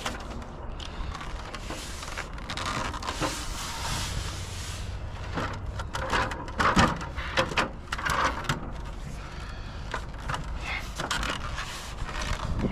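Wind buffeting the microphone in a steady low rumble, with rustling, scraping and short knocks of handling and movement scattered through, and a longer rushing stretch about two seconds in.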